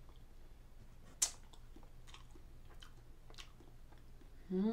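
Close-up mouth sounds of a person chewing soft rainbow layer sponge cake: faint wet clicks and smacks, with one sharp click about a second in. A short hummed voice comes in at the very end.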